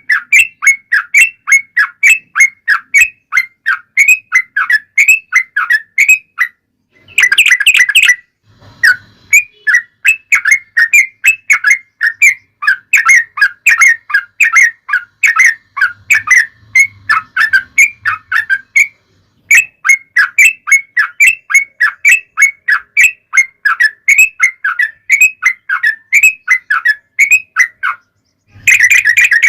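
Yellow-vented bulbul (trucuk) singing a long, fast run of short chirps, about four a second, with short pauses and a louder, denser flurry about seven seconds in and again near the end.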